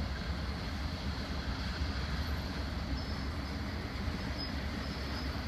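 Freight train rumbling steadily, a low, even rumble with no breaks.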